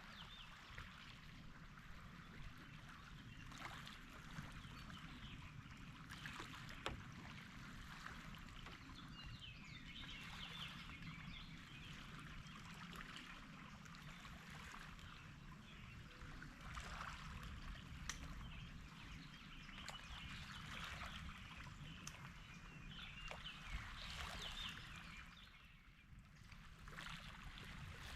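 Faint lakeside ambience: a steady low rumble of water and wind, with scattered faint bird chirps and a few small ticks.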